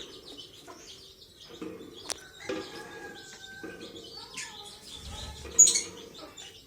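Lovebirds chattering in a steady stream of short, high chirps, with a louder, sharper burst about five and a half seconds in.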